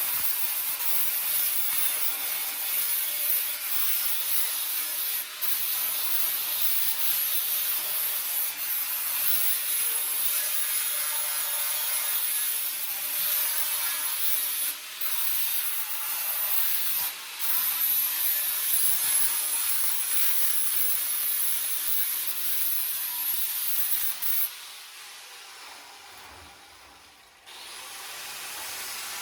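A handheld abrasive power tool running steadily against a surface, with a high steady whine over the grinding noise and a few brief breaks. It stops about 24 seconds in and starts again near the end.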